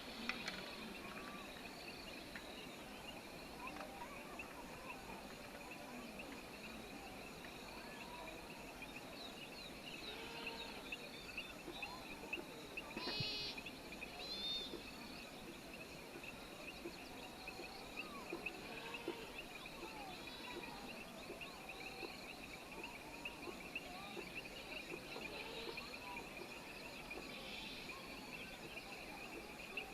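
Rural outdoor ambience: a steady high-pitched drone, such as insects make, with scattered bird and animal calls. A short run of quick repeated chirps comes about 13 seconds in.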